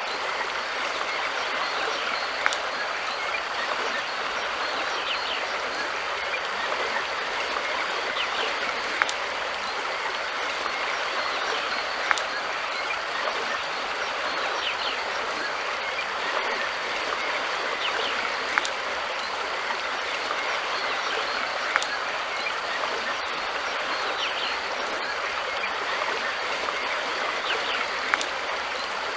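River water flowing steadily, a constant rushing with a few sharp ticks or small splashes every few seconds.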